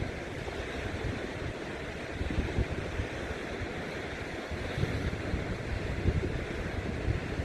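Wind buffeting the microphone in gusts over the steady wash of ocean surf.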